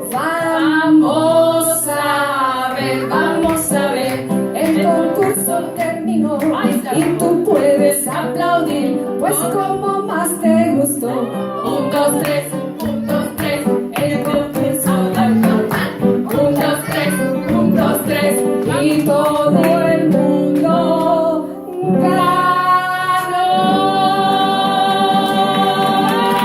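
Live children's song: female voices singing over guitar, with sharp percussive beats throughout. The beats drop out briefly near the end, where the voices hold long notes.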